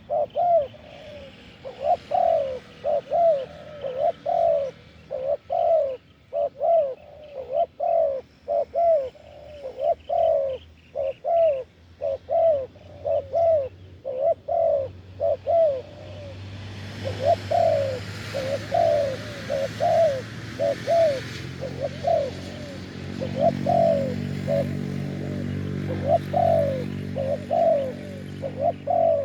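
Spotted doves cooing over and over in short phrases of a few notes each. About halfway through, a low droning hum and hiss join in underneath.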